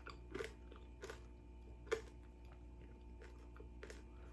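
Faint chewing of a mouthful of roast pork lechon, with a few soft, irregular crunches and mouth clicks.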